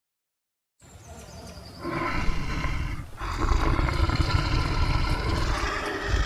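A large animal calling, starting about a second in out of silence and growing louder a second later.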